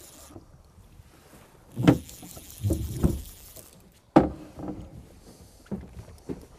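A handful of sharp, irregular knocks and thumps, like gear being handled in a boat. The loudest come about two, three and four seconds in.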